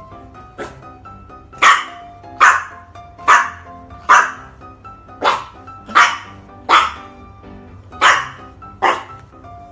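A dog barking repeatedly, about ten sharp barks most under a second apart, over background music.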